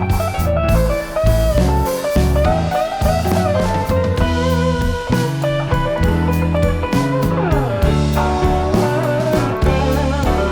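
Background music: a bluesy guitar tune with bending notes over a drum kit.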